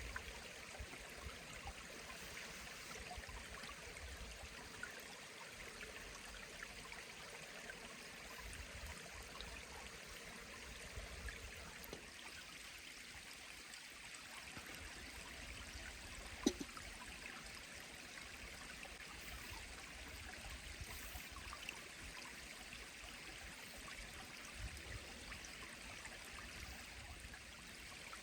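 A mountain stream flowing steadily, a faint even rush of water. A single sharp tap sounds once, a little past the middle.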